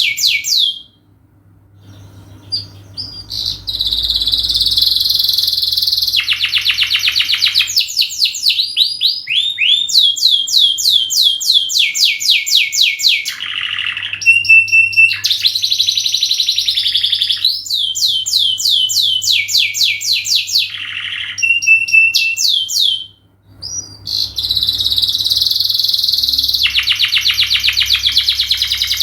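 Domestic canary singing long phrases of fast trills and rapidly repeated high notes. The song breaks off briefly about a second in and again a little past three-quarters of the way through, over a faint low hum.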